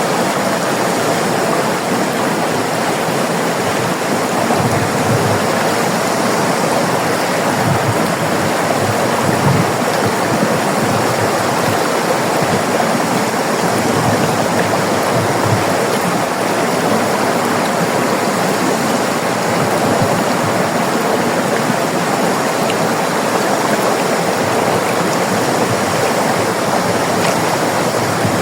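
River water flowing and rushing steadily over rocks, a continuous even rush.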